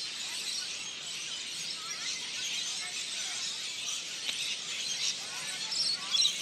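Outdoor ambience: a steady high hiss with faint, short chirps scattered through it, and a few brief louder sounds near the end.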